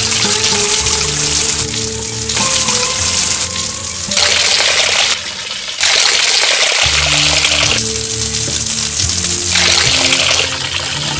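Background music with steady low notes over loud running water, a rushing hiss that cuts off and returns abruptly several times.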